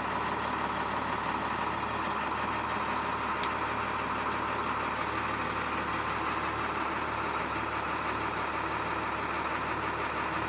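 MaxxForce DT inline-six turbo diesel in a school bus idling steadily soon after a cold start, heard from the driver's seat. There is one brief click about three and a half seconds in.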